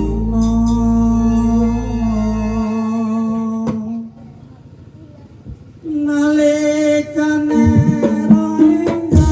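Live Javanese band music: a long held note with a deep bass hum that drops out, a brief near-pause about four seconds in, then a new held note as the drums and rhythm come back in near the end.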